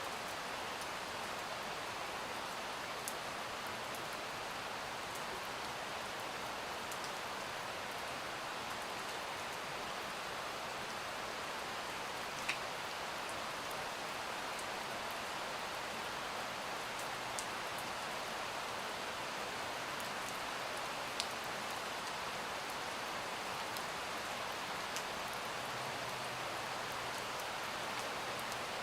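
Steady rain falling, an even hiss with a few sharp single ticks scattered through it.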